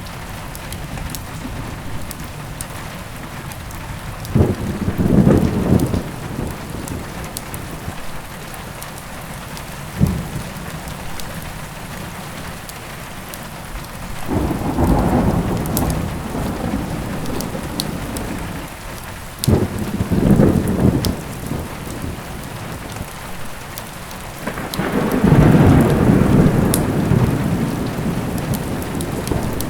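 Steady heavy rain with thunder rumbling five times. One thunder clap is short and sharp, about ten seconds in, and the longest, loudest roll comes near the end. Scattered small pops and crackles of a wood fire sit over the rain.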